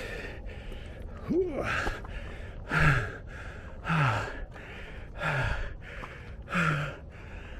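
A man breathing hard from exertion on a steep climb: heavy, voiced exhalations, each falling in pitch, about one every second or so.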